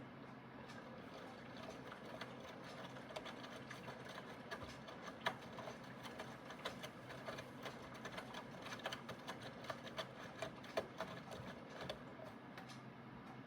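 Aidoo 1 kg mini washing machine running a wash cycle: a steady motor hum with many irregular light clicks and ticks, most frequent through the middle.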